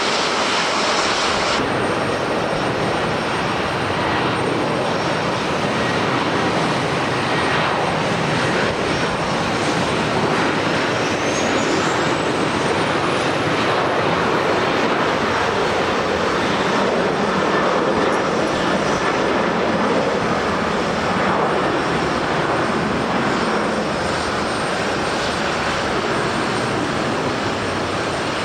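An airliner's jet engines running with a steady, loud noise in heavy rain and gusty wind, with a thin high whine that rises in pitch about ten seconds in.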